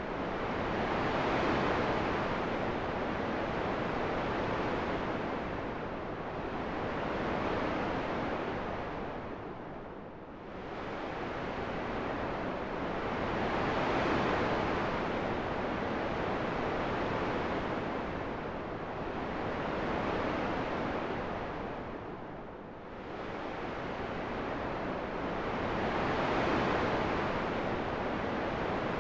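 Wind noise rising and falling in slow gusts, with two deep lulls about twelve seconds apart.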